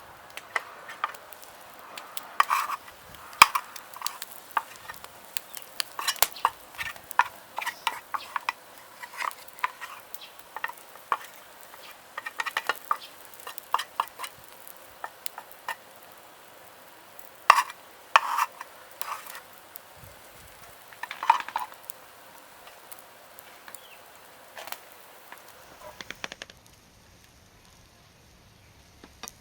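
A metal utensil stirring and scraping in a cooking pan, with irregular clinks and scrapes that stop about 26 seconds in.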